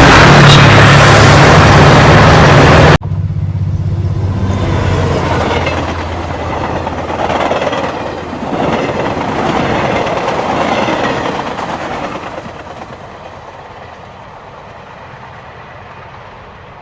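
Jet airliner engine noise: a very loud, steady roar that cuts off abruptly about three seconds in, followed by a quieter jet roar that swells and then slowly fades away as the aircraft moves off.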